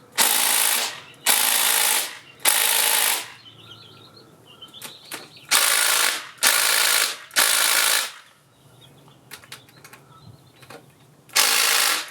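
Small impact wrench hammering in short bursts on stuck 12 mm engine fasteners: three bursts, a pause, three more, then one near the end. The bolts are not budging.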